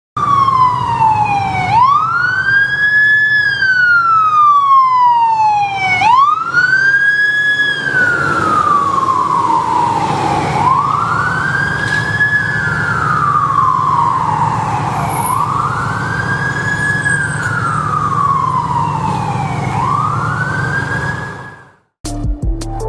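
Fire engine siren wailing: each cycle sweeps quickly up in pitch and then slides slowly down, about five cycles, over the fire truck's low engine rumble. It fades toward the end and cuts off, with music starting in the last second.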